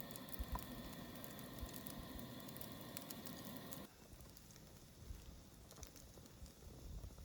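Faint crackling that cuts off abruptly about four seconds in, leaving near silence with a few soft ticks.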